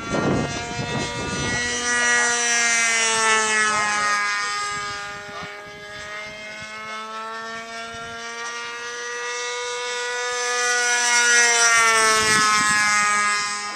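Radio-controlled model airplane's engine running at speed as it makes two passes, getting louder as it approaches and dropping in pitch as it goes by, about 3 s in and again near the end.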